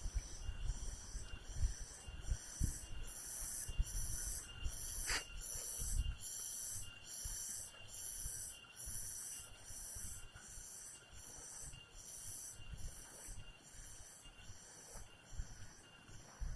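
High-pitched insect chorus pulsing rhythmically, a bit more than one pulse a second, loudest in the middle and fading toward the end. Low thumps and rumble, like wind or handling on the microphone, run through the first six seconds, with a single sharp click about five seconds in.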